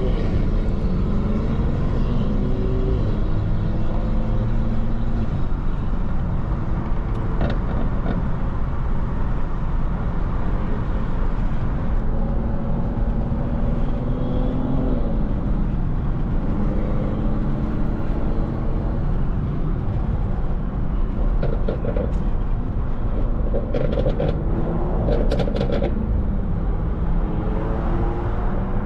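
Mercedes-AMG GT 63 S's twin-turbo V8 running under way, heard with road noise from inside the car. Its pitch slowly rises and falls as it accelerates and shifts. A few light clicks come about three-quarters of the way through.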